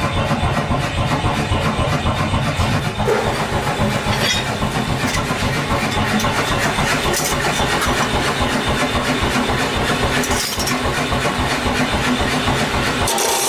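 Workshop machinery running with a rapid, steady beat.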